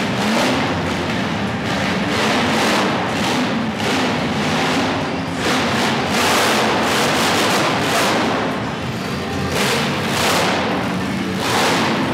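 Monster truck engine revving hard in repeated surges, loud and echoing in an arena, with music playing over the arena's PA.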